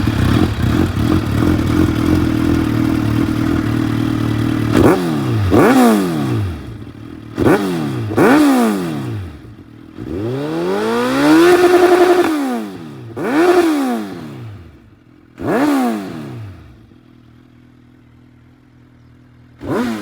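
Suzuki Hayabusa inline-four with an Akrapovic full exhaust system idling, then revved in a string of sharp throttle blips, one held higher for about two seconds, before settling back to idle and blipping once more near the end.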